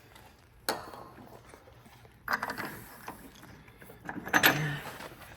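Metal parts and hand tools clicking and scraping as a shock absorber is fitted to a truck's rear axle. There is a sharp click under a second in and a louder clatter at about four and a half seconds.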